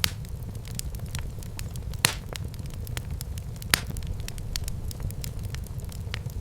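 Wood fire burning in a fireplace: a steady low rumble of the flames with a constant scatter of crackles and a few sharper pops, the loudest about two seconds in and another just before four seconds.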